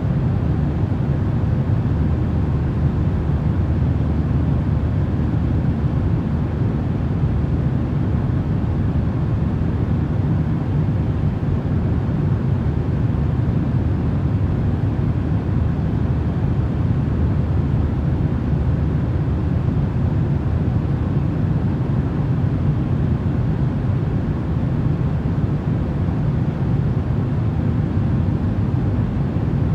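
Steady, unchanging rumbling noise, heaviest in the low range, played as a sleep sound.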